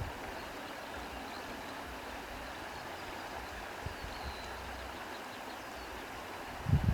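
Steady outdoor ambience of wind rustling through reeds with sea water, a constant even hiss. There is a brief low thump a little before the middle and a stronger one near the end.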